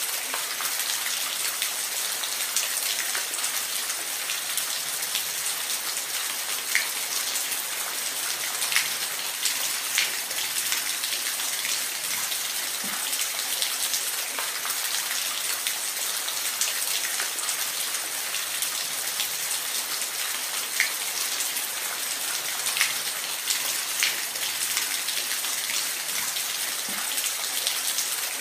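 Steady hiss of falling water, with occasional sharper splashes standing out here and there.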